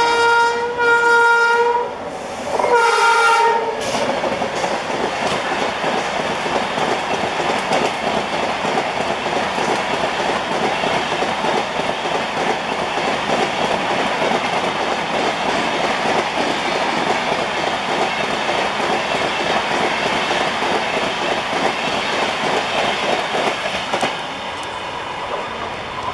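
Electric locomotive horn (WAP7) sounding two long blasts, then a Rajdhani express passing close at speed: a steady rumble with the wheels clattering over the rail joints for about twenty seconds, easing a little near the end.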